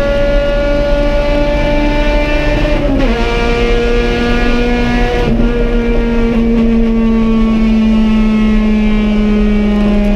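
Honda Civic race car's B18 four-cylinder engine at full throttle, heard from inside the cockpit. It runs high in the revs, drops sharply in pitch at an upshift about three seconds in and again about five seconds in, then pulls up slowly in the higher gear.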